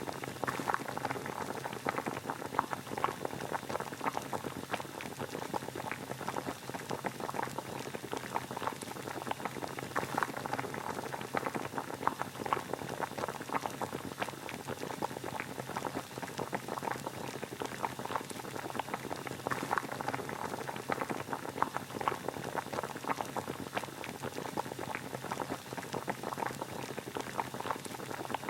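Water boiling steadily: a dense, even crackle of many small bubbles bursting, with no change in pace.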